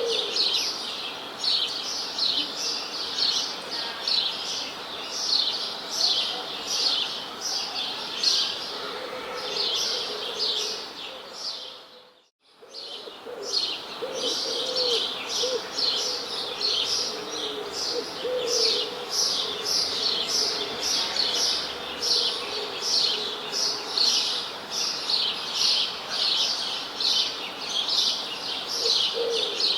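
Many small birds chirping together: a dense, continuous chorus of short high chirps, several a second, with a lower call now and then. The chorus fades almost to silence for a moment about twelve seconds in and comes straight back.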